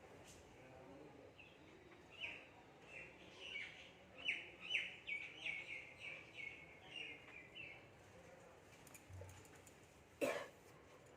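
Small birds chirping: a quick run of short chirps, many falling in pitch, that starts about two seconds in and goes on for several seconds. Near the end comes a single short, sharp noise.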